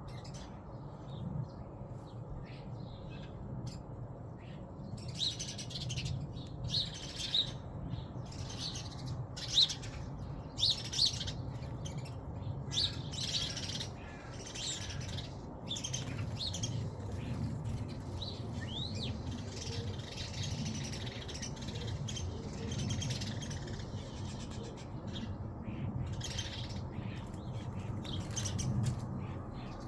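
Wild birds chirping in short, scattered calls, over a steady low rumble.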